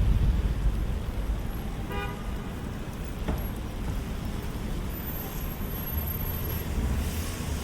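Steady low rumble of city street traffic, with one short car horn toot about two seconds in.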